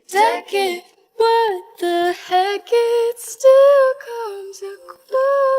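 Solo female voice singing unaccompanied, an isolated lead vocal track. The notes waver with vibrato at the start, then come as a run of held notes with small slides between them.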